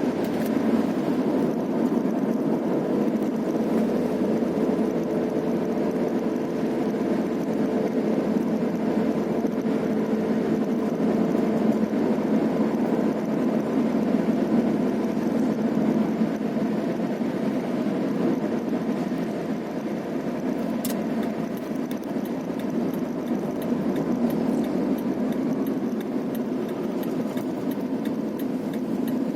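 Vehicle running steadily along a road, engine and road noise at an even level.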